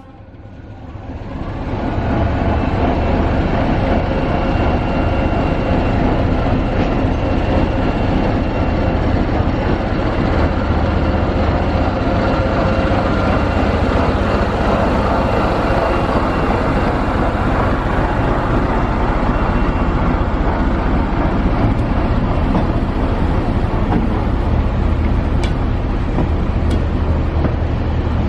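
Class 73 electro-diesel locomotive 73130 pulling away with its train under diesel power. Its running noise builds over the first couple of seconds, then holds loud and steady with a low hum and a faint whine.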